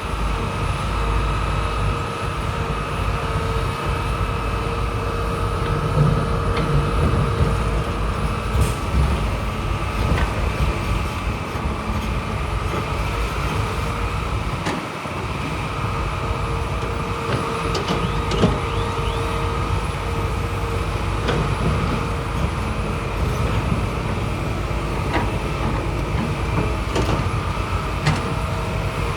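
Bulldozer diesel engine running steadily, with a steady whine over it and a few scattered clanks.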